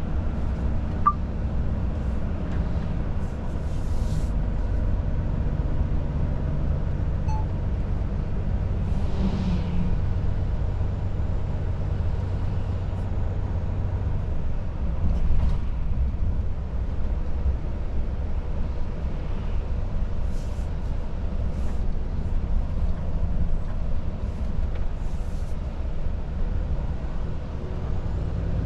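Volvo FH truck's 13-litre straight-six diesel running steadily under way, with road and tyre noise, heard from inside the cab. A few short hisses are heard along the way.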